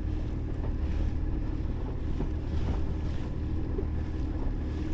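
A boat's engine running steadily, with wind noise on the microphone and the wash of water.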